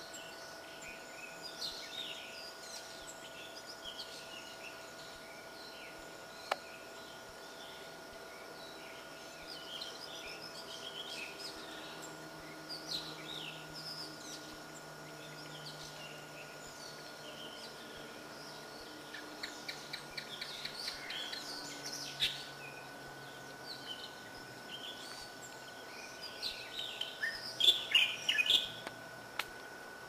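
Several wild birds chirping and singing in short, repeated calls, with a louder run of chirps near the end. A faint steady high tone runs underneath.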